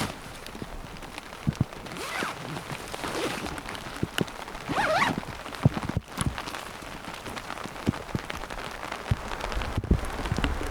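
Rain falling in a forest, a steady patter with scattered individual drops tapping close by.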